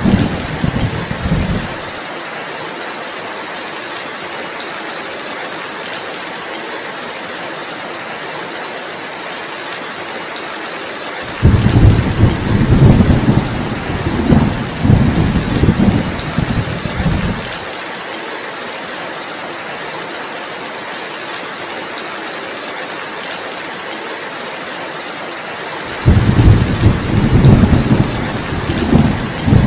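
Steady heavy rain with rolling thunder. A deep rumble dies away about two seconds in, a second loud rumble starts abruptly at about eleven seconds and rolls on for about six seconds, and a third begins near the end.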